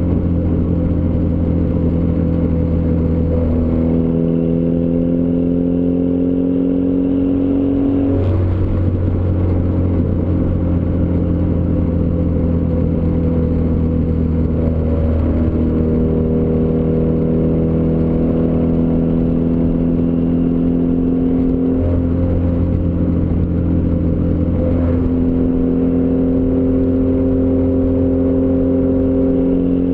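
Turbocharged Ford Escort ZX2's four-cylinder engine running through a 3-inch side-exit exhaust, a steady drone whose pitch creeps up slowly and shifts in steps a few times, about 4, 8, 15, 22 and 25 seconds in.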